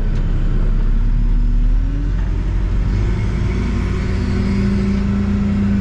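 Backhoe's diesel engine running under load, heard from inside the cab. Its pitch rises for a moment about a second in, then settles into a steady hum.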